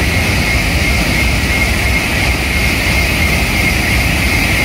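A Shinkansen bullet train passing at speed: a loud, steady rushing rumble with a high whine running through it.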